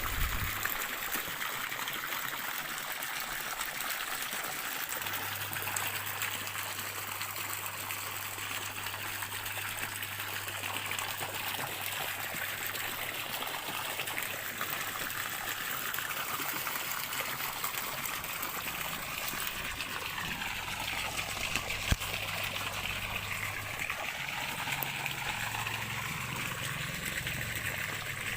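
A stream of water trickling and running steadily, with one sharp click about three quarters of the way through.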